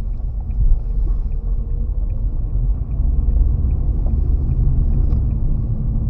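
Car driving on a wet, slushy road: a steady low rumble of tyres and engine, with a few faint ticks.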